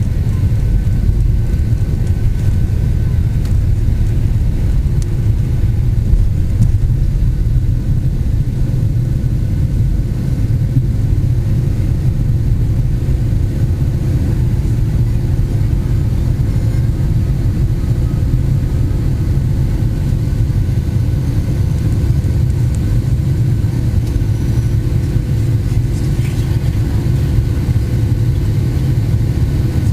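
Steady low rumble of a Boeing 757-200's engines and airflow heard inside the passenger cabin, with a faint steady hum above it.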